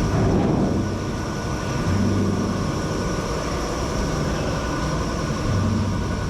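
Ice factory machinery running: a steady mechanical hum with a low drone and a thin high whine, the drone swelling briefly about two seconds in and again near the end.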